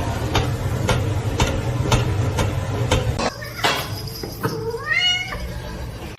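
A cat meowing once, a single call that rises in pitch near the end, after a run of even ticks about two a second over a low hum.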